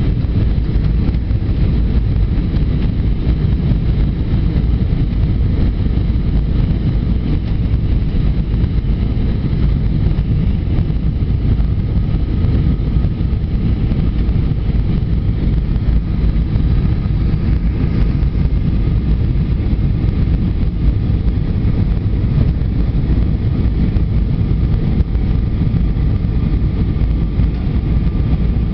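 Steady low rumble of an Airbus A320's engines and airflow heard inside the passenger cabin, with faint steady high tones over it.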